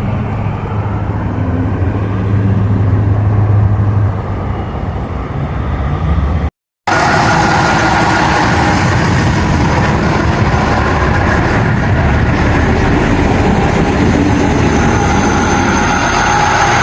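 A train running close by: a steady low engine hum, then, after a sudden cut about a third of the way in, loud rolling rumble with steady whining tones from the passing train.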